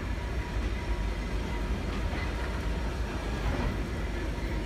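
Passenger train rolling along the rails, heard from on board the moving car: a steady low rumble of wheels and running gear.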